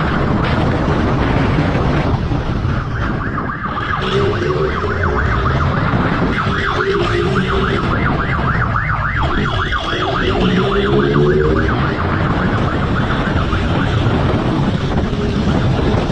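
Police siren warbling rapidly over a pursuit motorcycle's engine, which revs up and rises in pitch three times as it accelerates through the gears, with a steady rush of wind and road noise.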